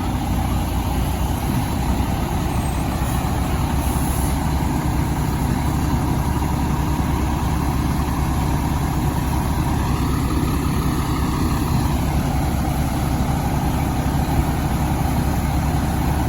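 1999 E-One Cyclone II fire engine's diesel engine running steadily with a low rumble as the truck drives off.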